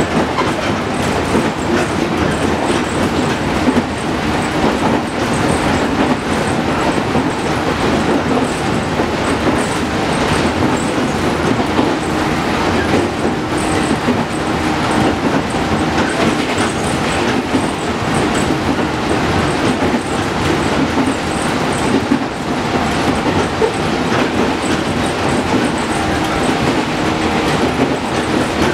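JR Kyushu 415 series 500 subseries electric multiple unit running at a steady speed between stations: a continuous rumble of wheels on rail with the clickety-clack of rail joints.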